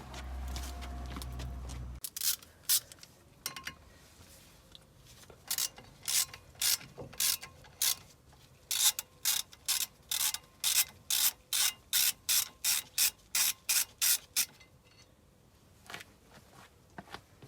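Hand ratchet wrench being worked in quick back-and-forth strokes on a bolt, a run of short sharp clicking strokes that settles into a steady rhythm of two to three a second before stopping. A low hum stops about two seconds in.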